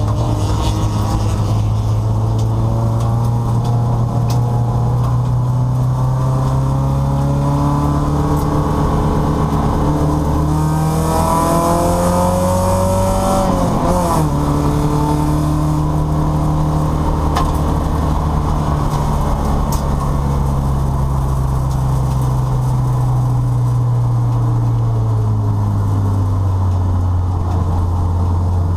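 Porsche 944 race car's four-cylinder engine heard from inside its stripped cabin. It holds a steady pitch, climbs in revs for several seconds, drops suddenly about fourteen seconds in, then runs steadily and falls away near the end as the car slows.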